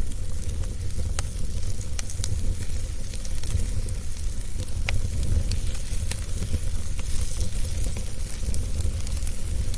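Fireplace fire burning with a steady low rumble and hiss, broken by sharp wood crackles and pops about once or twice a second.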